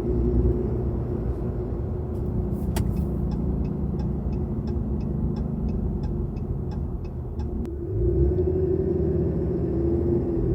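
Ram 2500's 6.7 Cummins turbo-diesel, on its stock intake, heard from inside the cab with the windows up: steady engine and road rumble while driving. A run of even ticks, about four a second, comes through the middle. About eight seconds in, the engine gets louder as it pulls harder.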